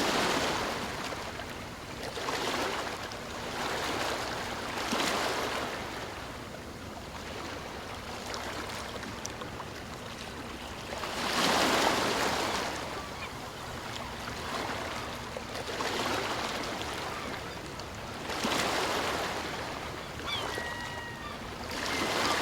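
Sea waves washing onto a shore: a steady rush of surf that swells and ebbs every few seconds, with the biggest surge about eleven seconds in. A few short chirping calls come in near the end.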